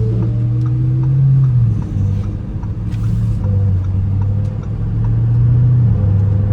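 Car engine running at a steady cruise with a low, even drone. Just after the start its pitch drops, as with an upshift.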